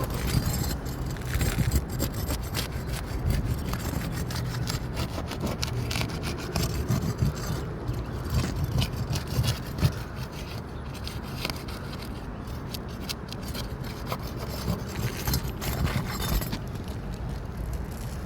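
Repeated scraping and rubbing of a tool against old 3-tab asphalt roof shingles at the start of a shingle repair, in many short strokes.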